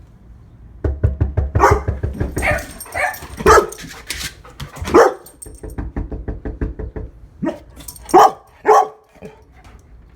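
Young female black Labrador barking in a series of loud single barks, alert barks at someone she senses outside. Between the first barks and again in the middle there is a low, fast-pulsing rumble like a growl.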